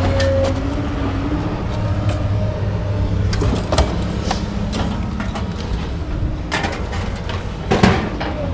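A truck running on the road, a steady low engine and road hum, with several knocks and rattles, the loudest near the end.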